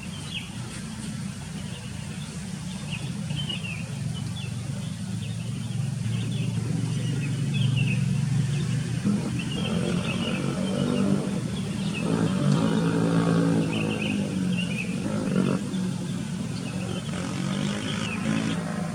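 Small birds chirping repeatedly over a low engine drone that grows louder and shifts in pitch midway, like a motor vehicle passing close by.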